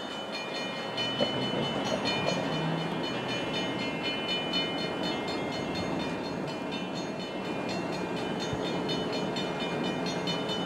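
NJ Transit train approaching the station, a steady rumble that builds over the first second, with a high-pitched ringing that pulses rapidly and evenly over it and stops near the end.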